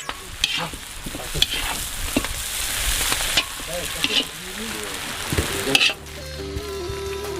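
Meat sizzling as it cooks: a steady hiss broken by a few sharp clicks and pops. Music comes back in near the end.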